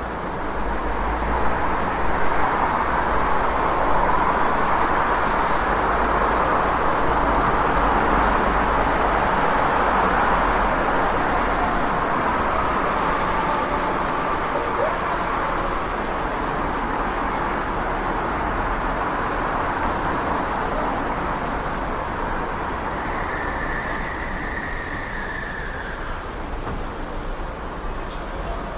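City street traffic noise: a steady wash of passing vehicles that builds over the first few seconds and eases off toward the end. A brief high tone sounds over it near the end.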